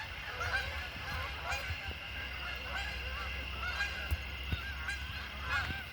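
A flock of geese honking: many short calls overlapping one another without a break.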